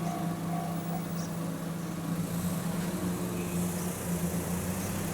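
Road vehicle engines idling with a steady low hum. For about the first second, a level-crossing warning bell can also be heard as a repeating two-per-second electronic tone before it stops.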